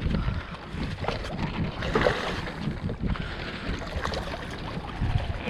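Wind buffeting the microphone, with irregular knocks and rustles of handling aboard a small fishing boat.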